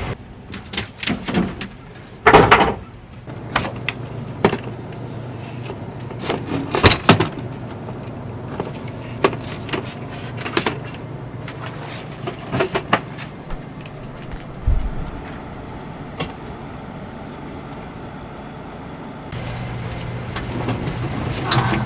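Irregular knocks, clicks and clatter of things being handled and set down, the loudest about two and a half and seven seconds in. A steady low hum stops just after the start and comes back near the end.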